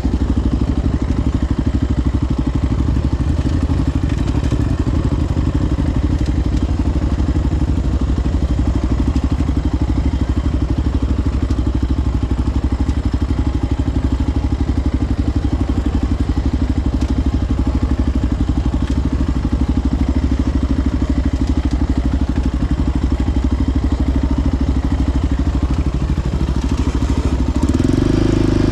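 Single-cylinder four-stroke ATV engine running steadily with a fast, even firing beat, briefly louder near the end.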